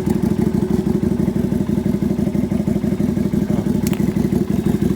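Lifan Lycan 250 cruiser's small V-twin engine idling steadily after its service, with one sharp click about four seconds in.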